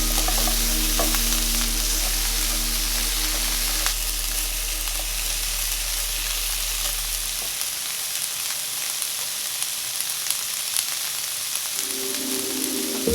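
Food sizzling as it fries in a hot pan, a steady hiss with scattered light clicks. Soft background music plays in the first few seconds and returns near the end.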